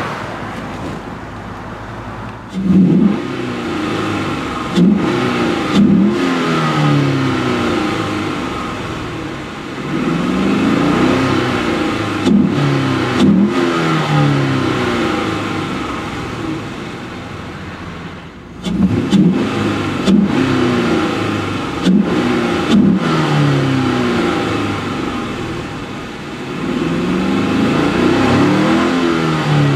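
2004 Cadillac CTS-V's LS6 V8 engine free-revving with the car standing still. It idles, then is blipped sharply a few times and held at higher revs up to about 5,000 rpm, falling back toward idle between runs, and this repeats several times.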